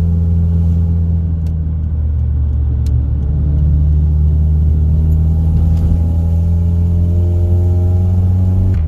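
2004 Honda CR-V's 2.4-litre four-cylinder engine pulling the freshly tuned-up car up a hill, a steady low drone whose pitch climbs slowly in the second half as it gains speed.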